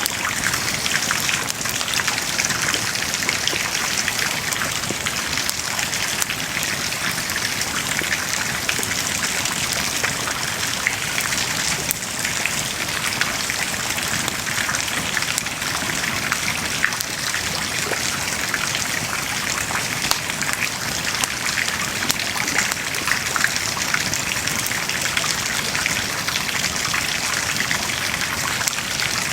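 Wood bonfire burning and crackling steadily: a dense stream of small pops and snaps over an even hiss.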